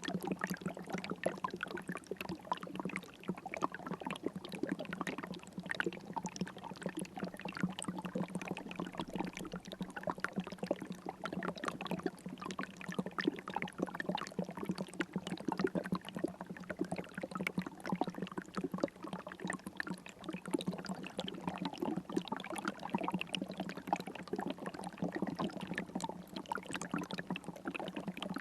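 River water flowing in a steady babble of many small splashes and gurgles.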